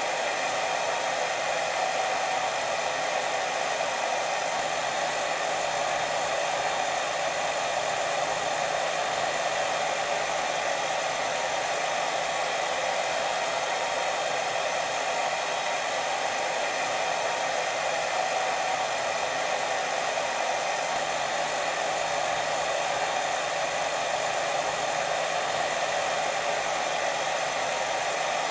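Steady white noise: an even, unchanging hiss with no breaks or pulses.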